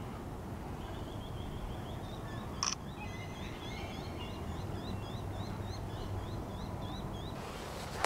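A small bird calling a long series of short rising notes, about three a second, over steady outdoor background noise, with a single sharp click about two and a half seconds in.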